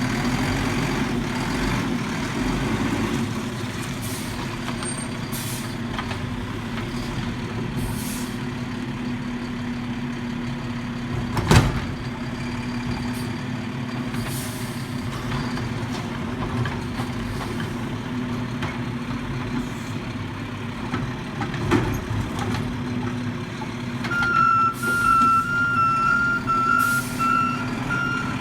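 Garbage truck's diesel engine running steadily, with several short hisses of air and a single loud bang about a third of the way through. Over the last few seconds its backup alarm beeps about twice a second as it reverses.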